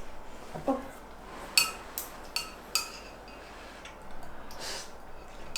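Cutlery and dishes clinking during a meal: four sharp, ringing clinks about one and a half to three seconds in, with a softer rustle near the end.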